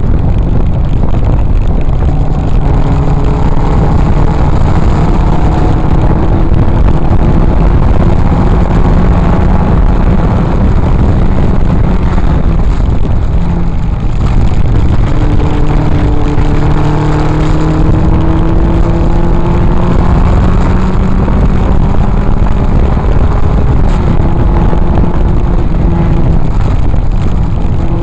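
Triumph TR4A's four-cylinder engine under race load, heard from inside the open cockpit: its pitch climbs slowly as it accelerates, and it breaks off and drops twice, about halfway through and again near the end, for shifts or lifts. Steady wind and road noise run underneath.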